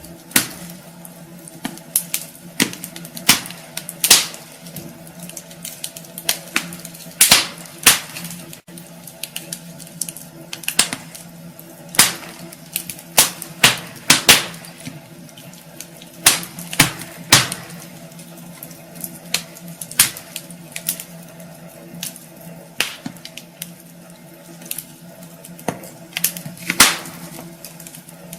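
Wood fire burning in a fireplace, logs crackling and popping irregularly with sharp snaps of varying loudness, over a faint steady hum.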